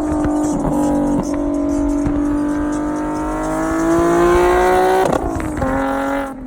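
Car engine pulling under acceleration, its pitch holding steady and then climbing. It drops sharply about five seconds in, as at a gear change.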